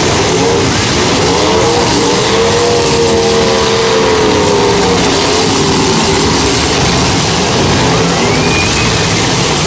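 Several 1980s-model demolition derby cars' engines revving and running at once, loud and unbroken, with engine pitch rising and falling about two to five seconds in.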